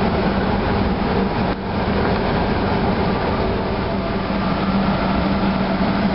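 MaK 8M32 eight-cylinder medium-speed marine diesel main engine running steadily at low speed shortly after starting, before it is brought up to full speed: a loud, even din with a steady hum under it.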